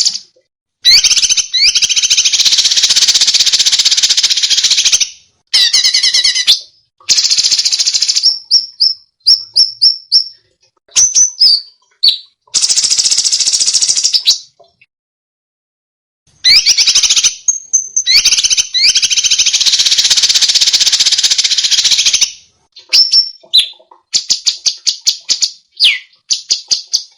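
Songbird song of the harsh, rapid 'tembakan' kind used as masteran to tutor competition songbirds: long, dense rattling phrases of several seconds each, alternating with short chirps and quick series of sharp, high notes, with a pause of about two seconds midway.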